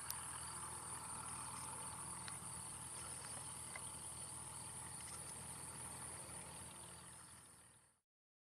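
Cessna 172 light-aircraft piston engine droning steadily, with a steady high-pitched shrill over it; the sound fades out about eight seconds in.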